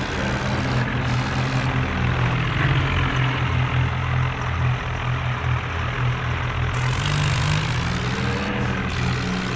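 Tractor diesel engine running hard, its pitch dropping about two seconds in and climbing back near the end.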